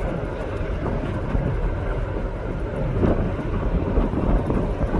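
Wind blowing across the microphone over a steady low rumble aboard a ferry.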